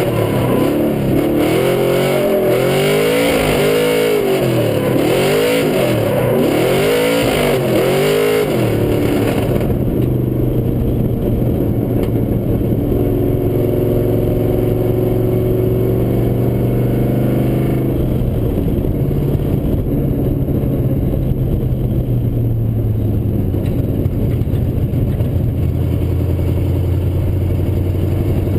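Pontiac GTO drift car's V8 engine heard from inside the car, revving up and down about once a second while drifting. About eight seconds in it settles to a steady, lower running tone, which drops lower again near the end.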